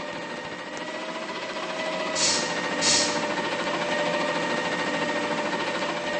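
Garbage truck running with a steady mechanical whine, and two short bursts of hissing air a little past two seconds in.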